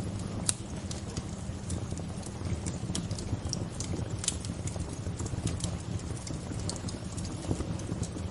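Bonfire crackling: irregular sharp pops and snaps, several a second, over a steady low rush.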